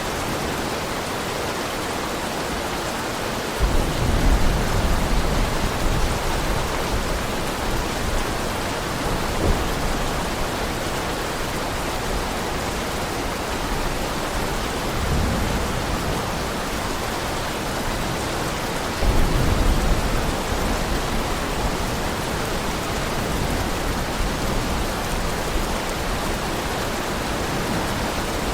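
Heavy rain falling steadily, with deep thunder rumbling in twice: once a few seconds in and again about two-thirds of the way through, plus a fainter rumble between them.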